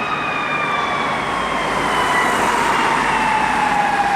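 Fire engine siren wailing, its pitch sliding slowly down through the whole stretch, over the noise of the truck and traffic.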